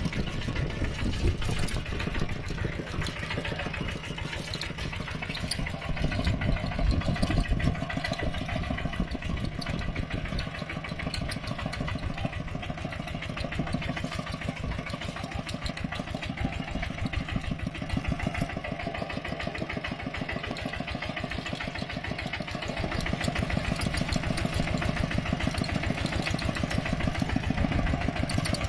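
Mini tractor engine running with a rapid, even chugging, growing louder over the last few seconds.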